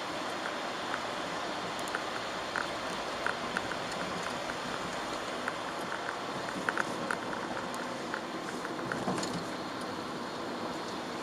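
Chevrolet Aveo driving in the rain, heard from inside the cabin: a steady hiss of tyres on the wet road and the engine, with scattered irregular ticks of raindrops striking the windscreen and roof.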